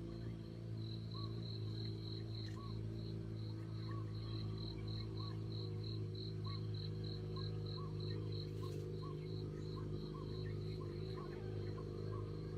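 An insect chirping in a fast run of high pulsed notes, about four to five a second, that fades somewhat after about eight seconds. A short, lower call repeats about once a second, over a steady low hum.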